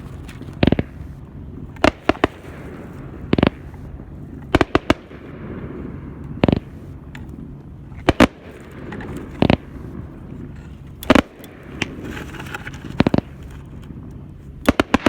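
Fireworks going off: a string of sharp bangs, roughly one every second or two and some in quick pairs.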